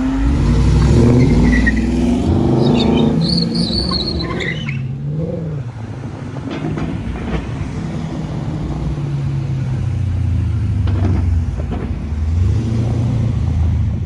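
Dodge muscle car engine accelerating hard in a pull, its pitch climbing, with a high wavering whine about three to five seconds in. It then settles to a steadier, lower running drone.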